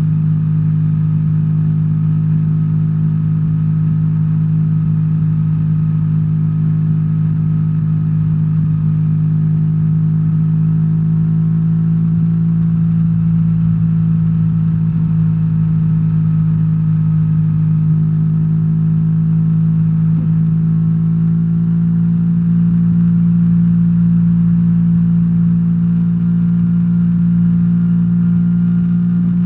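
BMW R1300R's boxer twin engine running steadily under way, its pitch rising a little about two-thirds of the way through as the revs pick up.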